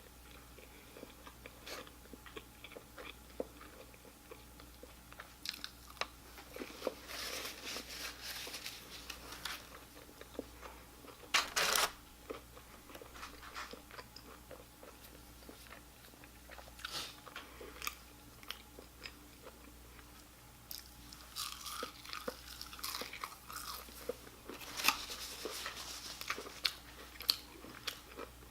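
Close-miked chewing and crunching of fried fast food, with scattered small clicks of biting and mouth sounds, two stretches of steady crunching and one short louder noise near the middle.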